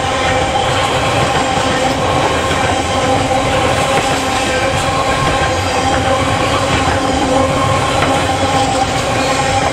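Freight train passing close by, its wagons rolling steadily over the rails with a continuous loud rumble and steady tones running through it.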